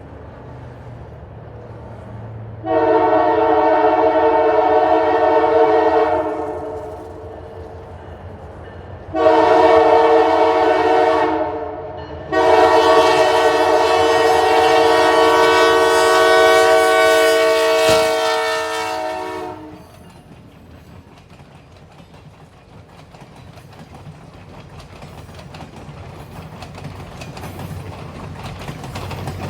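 Locomotive air horn sounding multi-note chord blasts for a grade crossing: a long blast, a shorter one, then a long blast of about seven seconds. After the horn stops, the low rumble of the approaching train grows louder near the end.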